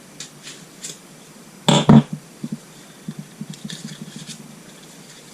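Small metal engine parts being handled and set down on a workbench: two sharp knocks about two seconds in, then a run of light clicks and rattles.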